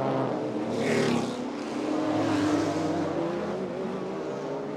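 Several GT race car engines running together as the cars file out onto the track one after another, one passing louder about a second in.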